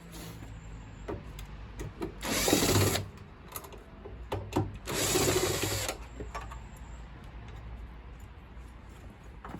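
Power drill-driver running in two short bursts about two seconds apart, each under a second, backing out screws while a boiler is taken apart. Scattered clicks and knocks of handled metal parts come between the bursts.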